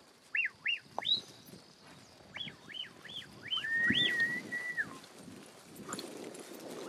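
A handler whistling to bird dogs: a series of short, rising-and-falling whistle chirps, then a long, steady whistle note about four seconds in. Horse movement sounds faintly underneath.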